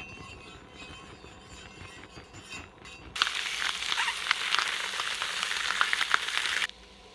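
Butterflied saury sizzling on a hot iron griddle plate, a steady hiss with scattered small pops. It starts suddenly about three seconds in and cuts off abruptly near the end, after a quieter first stretch.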